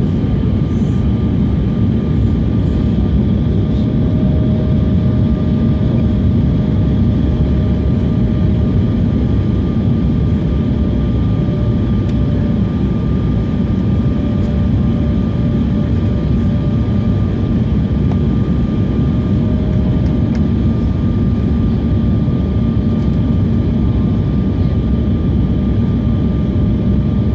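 Airliner in flight on approach to landing, heard from the cabin: a constant loud rumble of engines and rushing air with a few steady thin tones above it.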